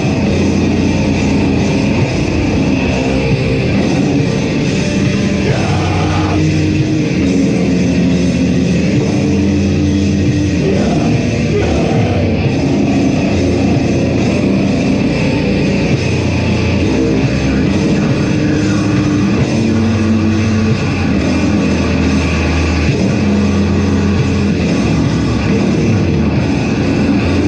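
A band playing loud, dense heavy metal live, without a break.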